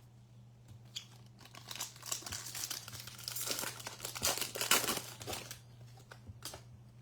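Crinkling and tearing of a foil trading-card pack wrapper being ripped open and handled. The crackling is heaviest through the middle, with one last crackle near the end.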